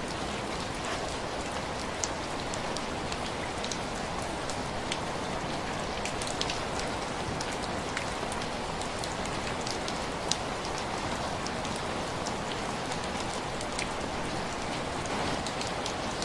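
Heavy rain falling in a steady, even hiss, with scattered sharp ticks and pops throughout, one a little louder about ten seconds in.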